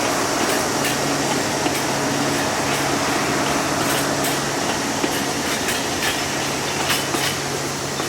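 Narrow-gauge Alishan Forest Railway train hauled by a diesel locomotive rolling past. A steady engine drone runs under a rumble of wheels, with scattered clicks as the wheels cross rail joints.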